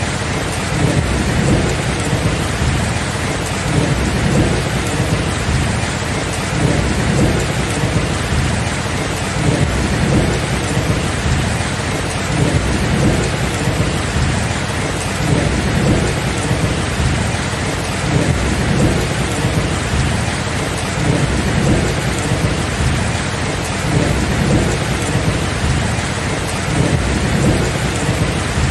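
Steady rain pouring down, with low rolling thunder rumbling underneath that swells and eases every few seconds.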